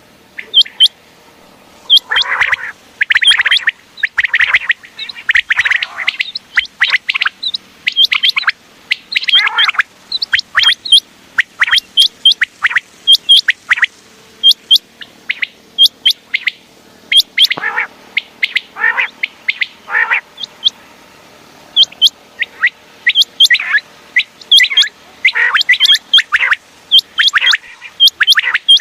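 Common quail calling: many short, sharp, high chirps and quick down-slurred notes in fast runs, separated by brief pauses.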